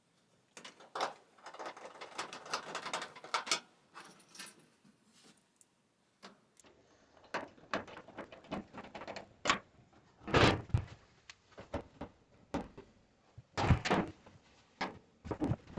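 Clattering and knocking of the dryer's cabinet parts being handled and fitted back together, with two louder knocks about ten and fourteen seconds in.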